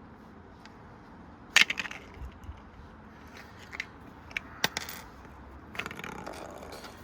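Coins clattering inside a running Precept washing machine: a string of sharp metallic clanks and rattles, the loudest cluster about one and a half seconds in, over a faint steady running noise.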